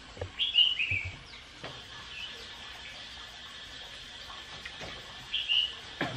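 Birds chirping: a cluster of short, high calls about half a second in and another brief pair about five seconds in, over a faint steady outdoor background. A single click near the end.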